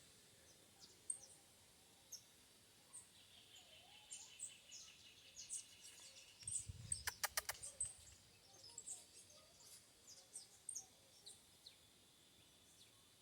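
Faint, high-pitched bird chirps scattered through the quiet, with a short cluster of clicks and a low thump about seven seconds in.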